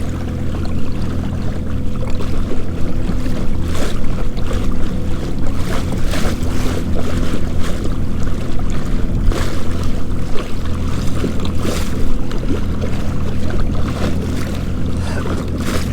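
Minn Kota electric trolling motor on a fishing kayak humming steadily under gusts of wind on the microphone and waves splashing against the hull.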